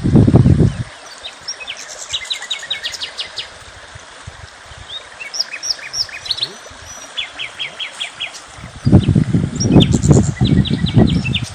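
Small birds chirping and singing, with several quick trills of repeated high notes. Loud low rumbling bursts come in the first second and again from about nine seconds in.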